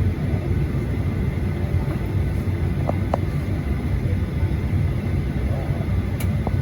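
Steady low rumble inside a Boeing 737-800 cabin parked at the gate before engine start, with a couple of faint clicks about halfway through.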